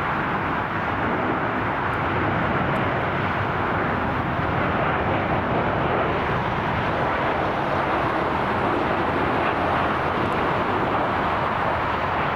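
Jet airliner engines, a steady rushing noise with no distinct pitch and no change in level.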